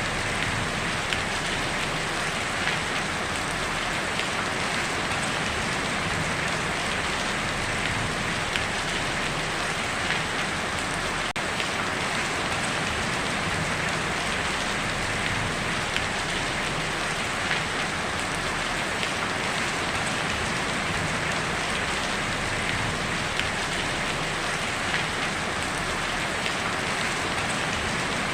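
Steady heavy rain drumming on a tin roof, a dense patter of small drop ticks.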